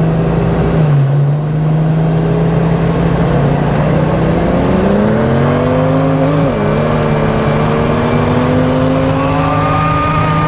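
Car engine pulling hard under acceleration, its pitch climbing with a brief dip about six and a half seconds in like a gear change, over a steady low drone.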